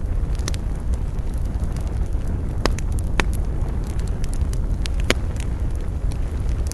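Fire in a fireplace crackling over a steady low rumble of flames, with a handful of sharp pops, the loudest about two and a half, three and five seconds in.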